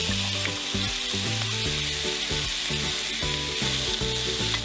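Bacon and diced vegetables sizzling on a hot griddle in butter, with a spatula stirring and scraping through them. The hiss is steady throughout.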